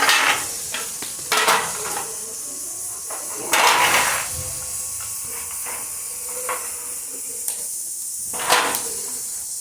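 Intermittent short scraping and rubbing noises with a few light clinks, from containers and fridge parts being handled and wiped during fridge cleaning.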